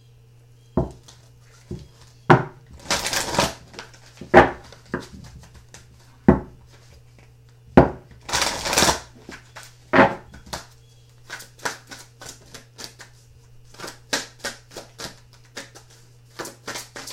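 A deck of oracle cards being shuffled by hand. Sharp knocks as the deck is handled, two longer riffling swishes, then a run of quick light card clicks near the end.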